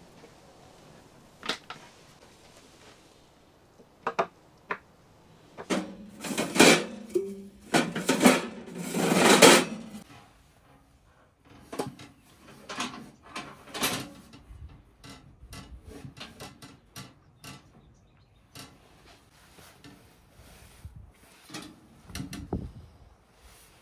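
Scattered knocks and clatter of objects being handled, with a louder, denser stretch of noise from about six to ten seconds in.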